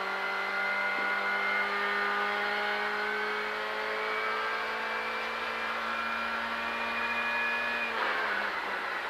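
Ford Fiesta R5 rally car's turbocharged four-cylinder engine, heard from inside the cabin, pulling under load with its pitch climbing slowly and steadily, then falling away near the end.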